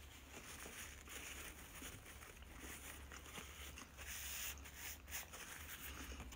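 Faint chewing and small mouth noises of a man eating a dry mini pizza base, with a paper napkin rustling against his mouth about four seconds in.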